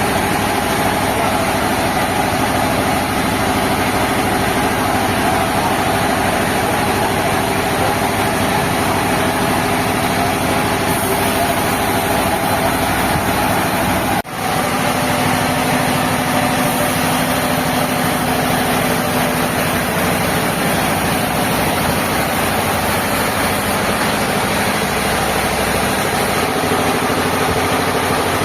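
Sawmill machinery running steadily, a loud dense mechanical noise with a steady hum, broken by a brief dropout about halfway through.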